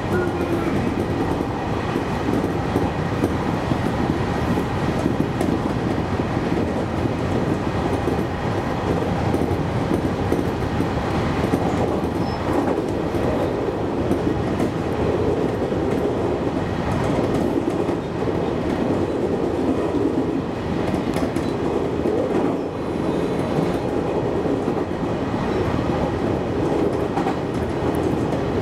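JR Kyushu 813 series electric train running along the track, heard from behind the driver's cab: a steady running rumble of wheels on rail.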